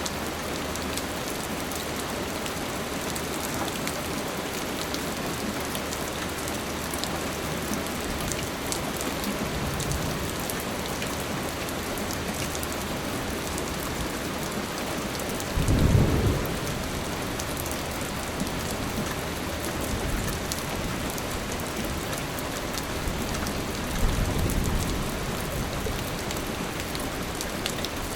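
Steady rain falling, with low rumbles of thunder: the loudest about halfway through and a second, weaker one a few seconds before the end.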